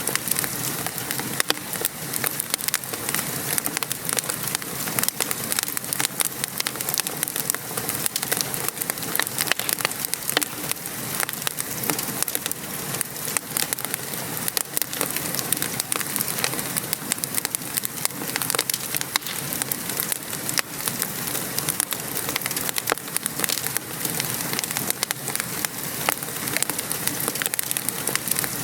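Steady rain patter mixed with a wood fire crackling, with many small pops and clicks scattered throughout over an even hiss.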